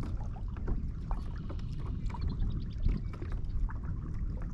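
Water splashing and trickling against the hull of a kayak moving under a trolling motor, many small irregular splashes over a steady low rumble.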